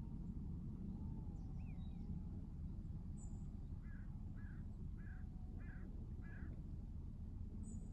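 Birds calling outdoors: a few thin whistles, then a run of five short calls about two a second, over a steady low rumbling background.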